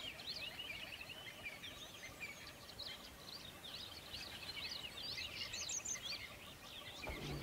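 Many small birds chirping in the background, a faint, dense chatter of short overlapping chirps.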